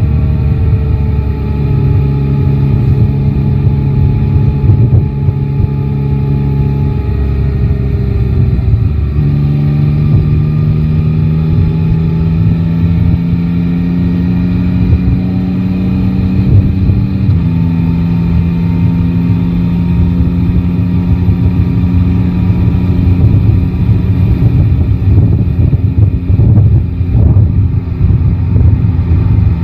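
Yamaha Tracer 9 GT's inline three-cylinder engine running steadily while riding, its pitch shifting twice, about a third of the way in and again a little past halfway, over a low wind rumble on the microphone.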